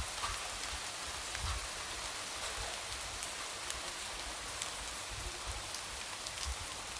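Light rain tapping against a window: a steady soft hiss with many scattered single drops, and now and then a faint low thud.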